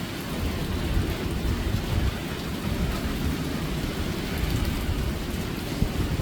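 Hurricane wind and heavy rain: a steady rushing with a low rumble throughout.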